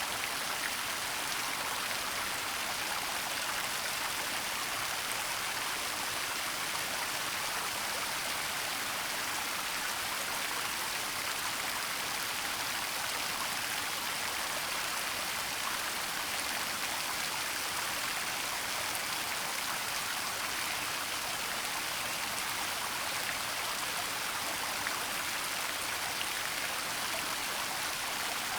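Waterfall rushing: a steady, even hiss of falling water with no pauses or changes.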